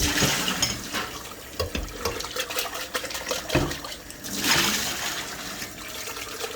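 Water from a kitchen tap running and splashing as a blender jar is rinsed out, with a few knocks of the jar.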